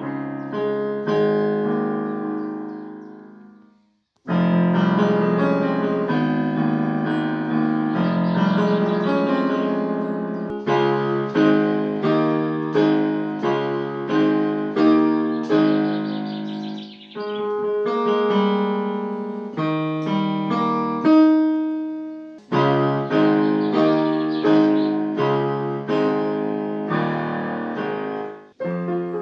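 Solo piano playing an original composition, melody over sustained chords. About four seconds in the notes die away to silence before the next phrase begins, and the playing pauses briefly a few more times further on.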